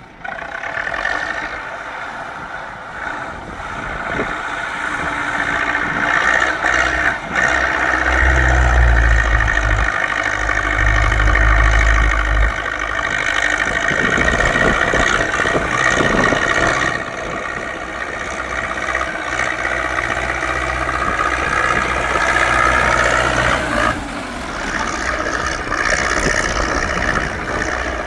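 Zetor tractor's diesel engine running hard under load, its pitch wavering up and down, while it works a rotary tiller through heavily overgrown ground that keeps clogging it. A deep rumble swells in about eight seconds in and again from about fourteen to twenty-four seconds.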